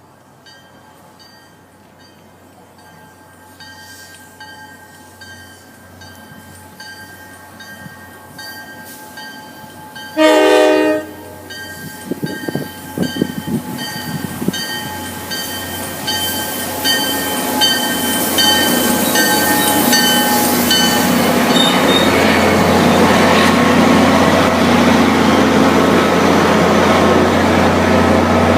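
Train approaching the station and growing steadily louder, with a single short horn blast about ten seconds in. A bell dings at an even rhythm through the first two-thirds, and the rumble of the train and its engine fill the last part.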